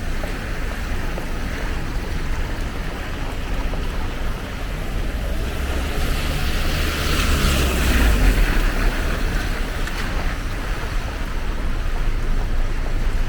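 Steady rain falling. From about six seconds in, a vehicle passes on the wet road, its low rumble and tyre swish rising to a peak and fading by about ten seconds.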